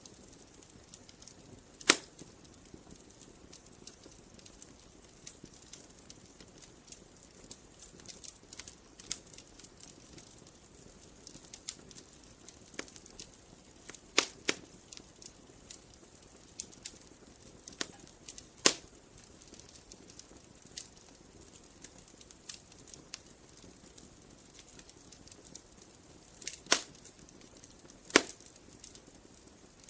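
Wood fire crackling: a soft steady hiss with scattered small crackles and now and then a loud, sharp pop.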